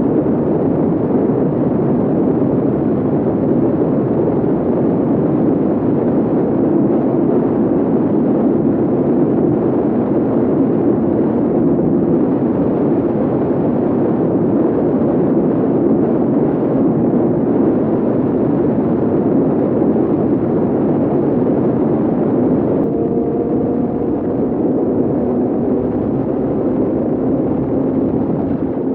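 Kawasaki Z800's inline-four engine with a full-system AR exhaust pulling steadily at high speed under heavy wind rush. About 23 seconds in the engine note changes and then slowly drops.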